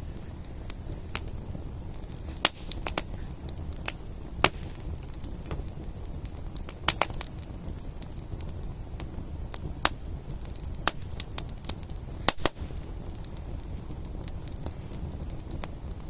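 Wood campfire crackling, with irregular sharp pops and snaps over a steady low rumble of the flames.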